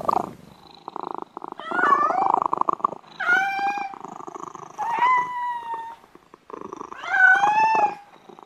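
Domestic cat purring with a fast rattling pulse, breaking into four drawn-out meows spaced a second and a half to two seconds apart.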